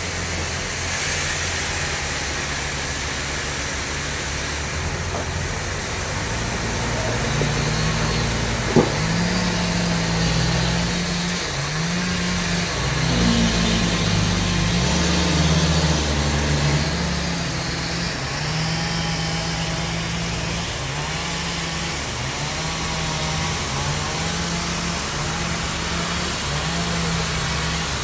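Sawmill machinery's engine running, its pitch shifting up and down in steps, with a single sharp knock about nine seconds in.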